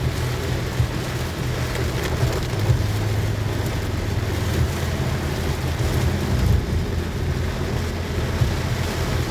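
Very heavy rain in a storm, a dense, even hiss over a steady low rumble from a vehicle driving through it.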